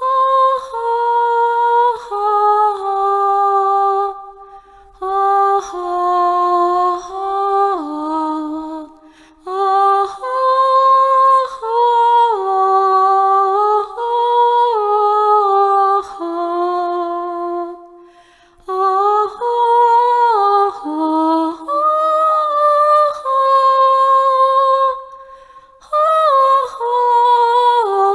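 A single voice vocalising without words, a slow melody of held notes stepping up and down, sung as one's own 'nature sound' for sound healing. The phrases are broken by short pauses for breath several times.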